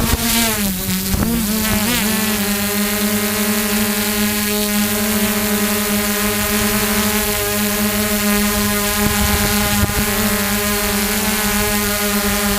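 Quadcopter drone's motors and propellers whining with a steady buzzing pitch. The pitch wavers up and down during the first two seconds as the motors change speed, then holds steady.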